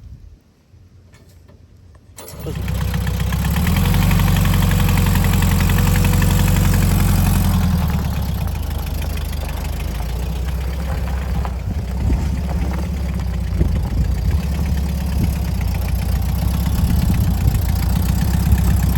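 The 1971 VW Westfalia bus's air-cooled flat-four engine starts about two seconds in. It runs a little faster for a few seconds, then settles to a steady idle.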